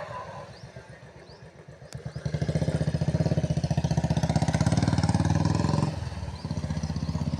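A small engine running close by, its rapid firing pulses faint at first, then much louder from about two seconds in, easing off a little near six seconds.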